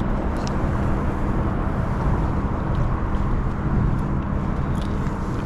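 Steady low rumble of a boat running on the water, with a faint steady hum under it.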